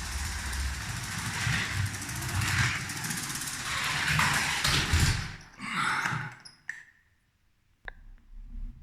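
Lego 7750 12V electric train running along its track, its motor and wheels making a steady clattering rattle. The noise dies away about six seconds in, followed by two sharp clicks.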